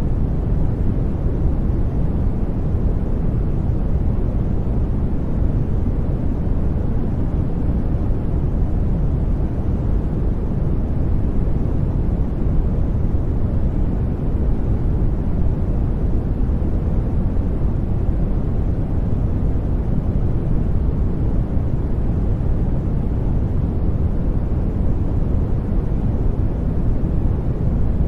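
Steady brown noise: a deep, even rumble with most of its energy in the lows and little hiss up top, unchanging throughout.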